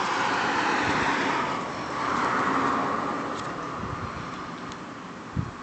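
Road traffic: tyre and engine noise of a car passing by, swelling, dipping briefly, then fading away, with a short knock near the end.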